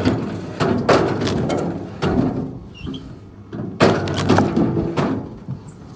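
Wood cracking and splintering in a series of loud, sudden crunches, about half a dozen over a few seconds, as timber is broken by a heavy machine, with a faint low hum underneath.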